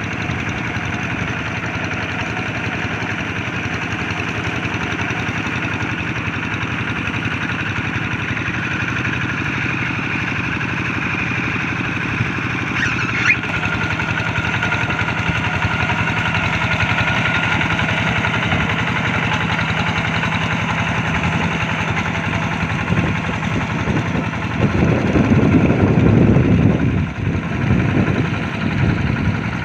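Single-cylinder Kubota RD85 diesel engine of a hand tractor running steadily, louder and rougher for a few seconds near the end.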